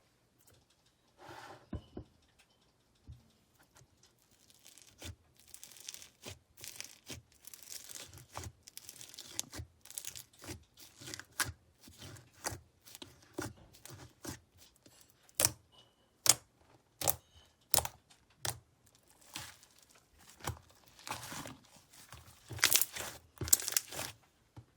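Slime being squeezed, stretched and pressed by hand, with irregular crackles and sharp sticky pops. The pops are loudest in a cluster near the end.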